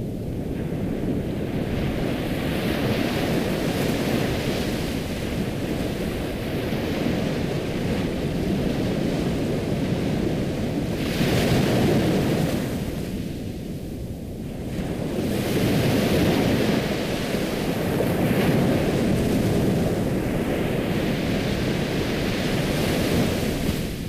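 Ocean waves washing onto a shore in slow surges that swell and ebb, with the loudest surges about halfway through and a few seconds later.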